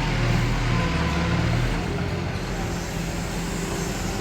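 Heavy diesel engine of earthmoving machinery running steadily, its note easing slightly about two seconds in.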